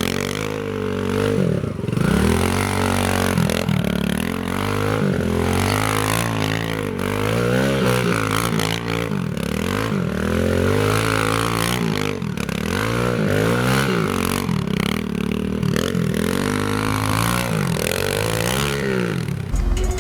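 Pit bike engine revved up and down over and over, about once every second or two, for a burnout with the rear wheel spinning in mud.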